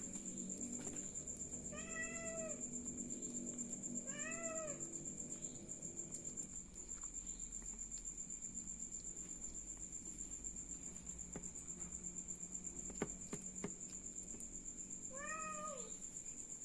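A stray cat meowing three times: two short, arched meows about two seconds apart, then one more near the end.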